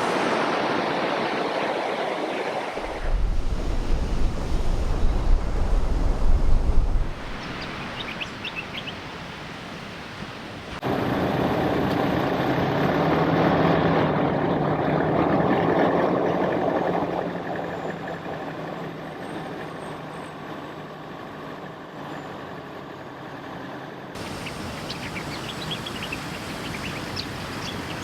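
4WD vehicle driving on a coastal track, engine running under the noise of tyres and wind, in several cut shots; a heavy low rumble for a few seconds early on.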